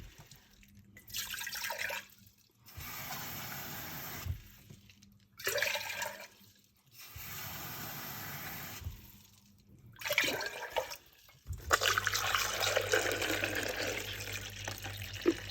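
Water running and pouring in about six separate bursts, some steady like a tap flow, the longest near the end: water being fetched to fill a drip coffee machine.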